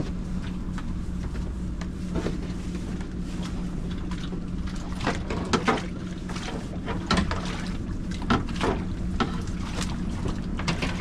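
A fishing boat's engine running with a steady low drone, with scattered short knocks and clatters from handling on deck.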